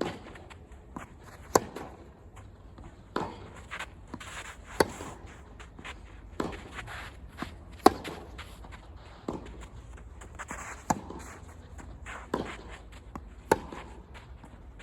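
Tennis ball struck by rackets in a long rally, a sharp hit about every second and a half, with fainter knocks between the hits.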